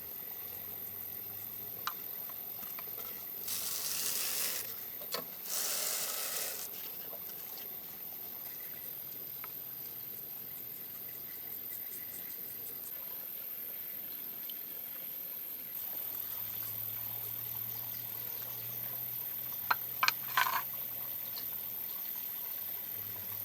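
Water trickling, with two short, louder rushes of noise a few seconds in and a few sharp clicks near the end.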